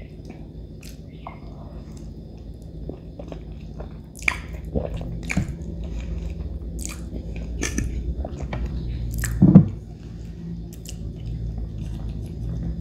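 Close-miked chewing of spaghetti marinara: wet mouth clicks and smacks, busiest in the middle, with one louder low thump about nine and a half seconds in.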